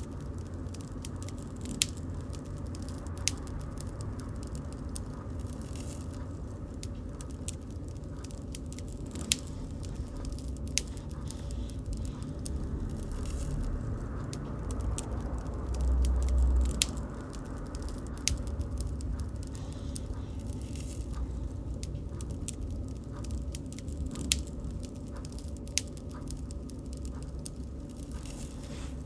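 Wood bonfire burning, with irregular sharp crackles and pops over a steady low rumble of flames; the rumble swells briefly a little past halfway through.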